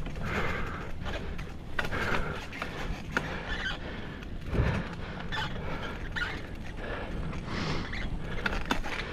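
Bicycle moving along a forest trail: irregular rattles, clicks and creaks over a low steady rumble.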